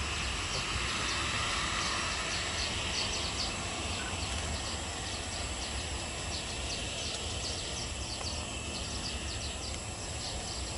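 Steady outdoor background noise with a low rumble, over which run rapid, repeated high chirps like those of insects or small birds.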